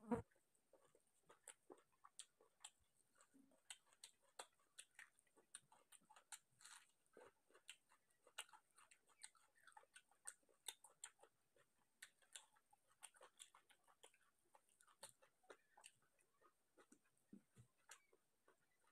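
Close-miked chewing and mouth sounds of a person eating rice and chicken by hand: a faint, irregular run of small wet clicks, with one louder click right at the start.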